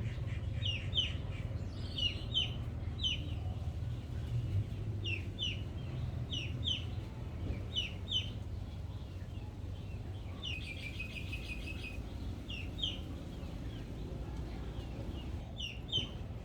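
Birds chirping: short, high, falling peeps, often in pairs, with a quick trill of notes about ten seconds in, over a steady low rumble.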